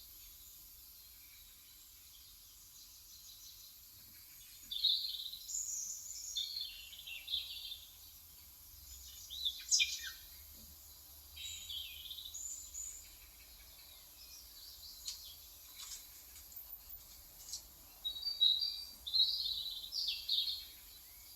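Small birds chirping in short, high phrases that come in clusters, about five seconds in, around ten seconds, and again near the end, over a faint steady hiss.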